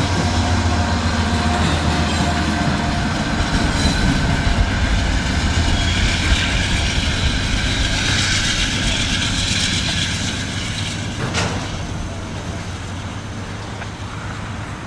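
Freight train passing close by: a diesel locomotive working under power, its low engine hum strongest for the first few seconds, then the cars' steel wheels rolling over the rails with a high hissing sound in the middle. A single sharp knock comes about 11 seconds in.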